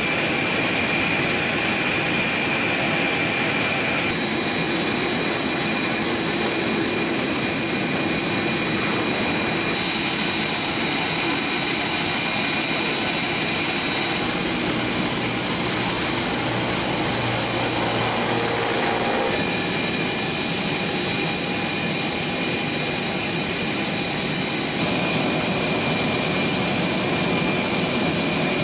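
Jet aircraft engines running steadily: an even rush of noise with a high, steady turbine whine over it.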